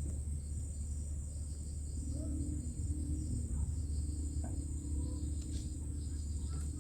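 A steady high-pitched chorus of crickets trilling, over a steady low rumble. Faint wavering low tones come and go in the middle.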